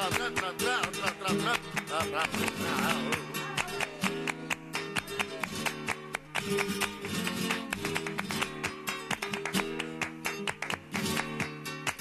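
Flamenco guitar music: plucked notes and rapid strummed chords, with a wavering wordless line in the first few seconds.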